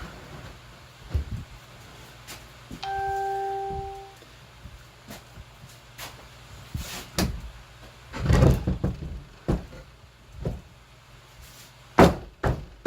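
Scattered knocks and thumps of a wooden board being handled and set in place, the loudest around eight seconds in and again near the end. About three seconds in, a single electronic beep holds for about a second.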